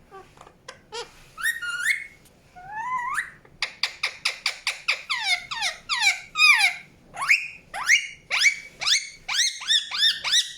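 Indian ringneck parakeet chirping: short, shrill calls that sweep sharply down or up in pitch, a few scattered at first, then coming in a quick run from about three and a half seconds in.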